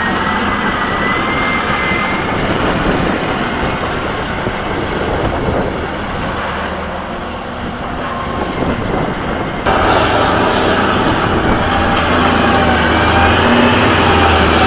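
Heavy Caterpillar earthmoving machinery, a bulldozer or scraper, working under diesel power, with a thin high squeal in the first couple of seconds. About ten seconds in the sound changes abruptly to a louder engine with a steady whine.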